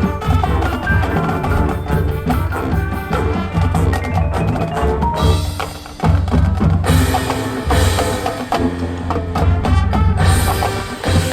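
High school marching band playing, with wind instruments over drums and percussion. The music dips briefly about six seconds in, then comes back with loud accents.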